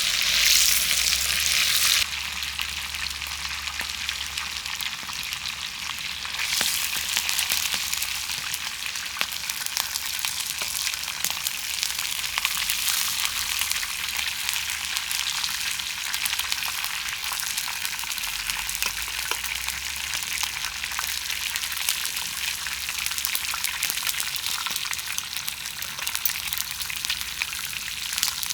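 Stuffed meat rolls frying in hot oil in a pan over a wood fire: a dense, crackling sizzle, louder for the first couple of seconds and then steady.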